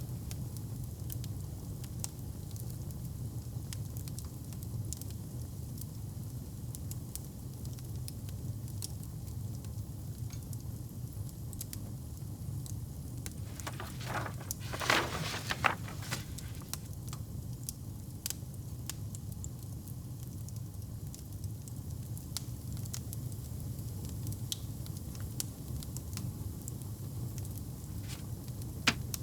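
Wood fire in a fireplace crackling, with a steady low rumble under scattered sharp pops and a louder flurry of pops about halfway through.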